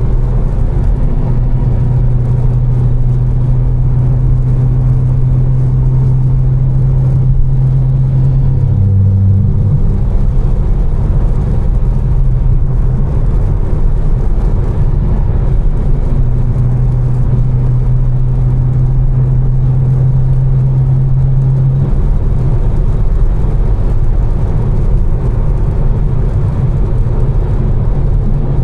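Tuned 800 hp BMW M4's twin-turbo inline-six running at steady cruise with road noise. A steady low drone holds for long stretches and briefly shifts in pitch about nine seconds in.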